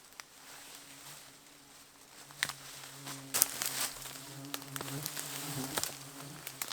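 Flies buzzing close by, a steady low hum that starts about two seconds in and wavers slightly, with several sharp rustles and snaps over it.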